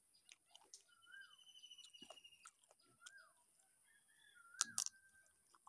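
Wild birds calling: a short whistled note that rises and falls, repeated every second or two, with a quick trill about a second in, over a steady high hiss. Small wet mouth clicks of eating by hand, and a loud crunchy bite into fried chicken near the end.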